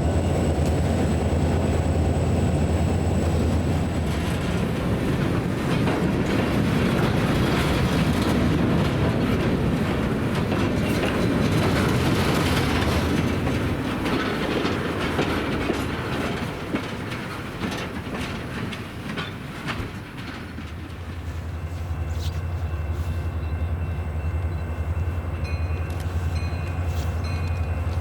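Freight train of empty coal hoppers rolling past, wheels clicking and clattering over the rail joints over a low rumble. The level drops briefly about three quarters of the way through, and then a steady low diesel locomotive drone returns.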